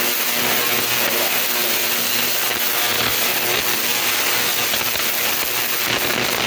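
Ultrasonic cleaner running with its tank full of soapy water solution: a steady hiss with a faint low hum underneath.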